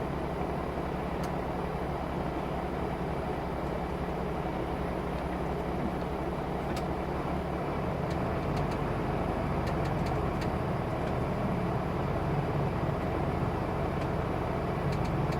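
Steady engine and road noise of a truck driving, heard from inside the cab, with the low engine hum shifting about halfway through.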